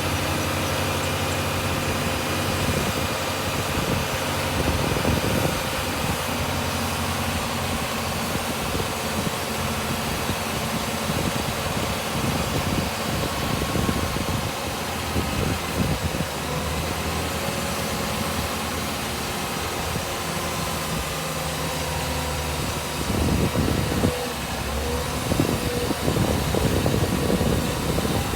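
Heavy diesel engine of earthmoving machinery running steadily. About 23 seconds in it turns louder and rougher, with irregular surges.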